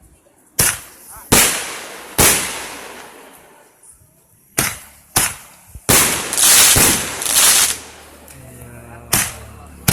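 Aerial fireworks bursting: a series of sharp bangs, each fading out over a second or so, with a close run of several bangs about six to eight seconds in.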